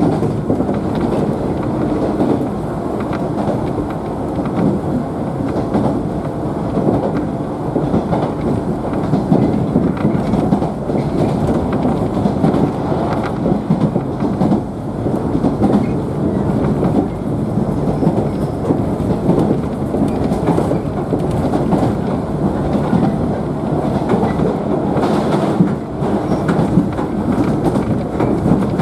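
JNR 113 series electric train running along the track, heard from inside the car: a steady rumble of wheels and running gear with clatter over the rails.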